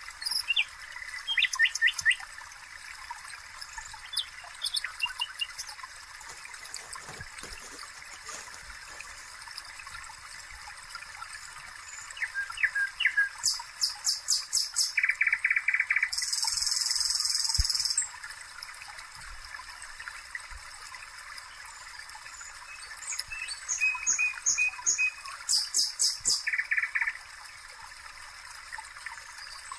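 Small songbird singing: high chirps and fast rolling trills in phrases, the loudest two about halfway through and again near the end, over a faint steady hiss.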